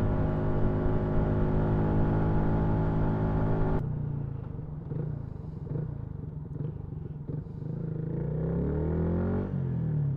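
Motorcycle engine running steadily at speed. About four seconds in, the sound drops abruptly and turns quieter and duller, and near the end the engine revs up with a rising pitch.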